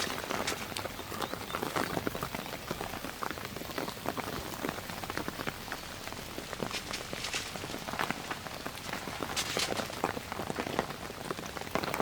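Steady rain, with many separate drops striking close by at irregular intervals.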